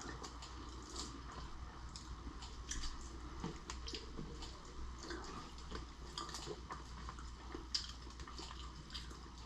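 Close-up wet chewing and mouth smacking of a person eating, with many small irregular clicks over a low steady hum.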